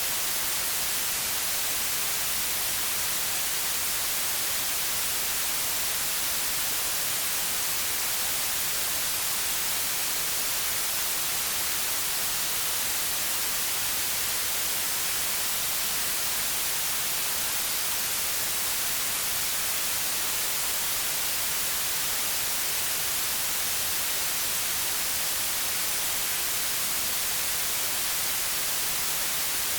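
Steady white noise: an even, unchanging hiss, strongest in the high frequencies, with no events or changes.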